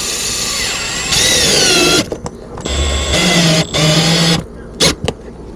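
Power drill running in bursts, driving screws: a run of about two seconds, another of about a second and a half, and a short blip near the end. Its whine drops in pitch as the motor takes load.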